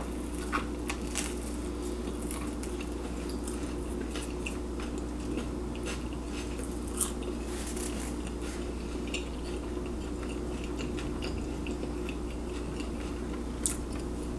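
Close-miked chewing of a breaded steak sandwich (torta de milanesa), with small wet mouth clicks and a few sharper ticks scattered throughout, over a steady low hum.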